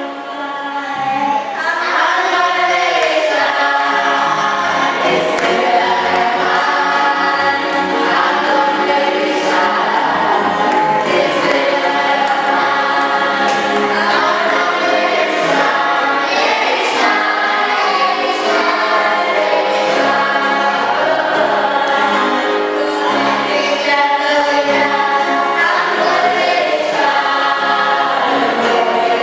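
A choir singing a gospel hymn, many voices together, steady and full after a brief dip in level near the start.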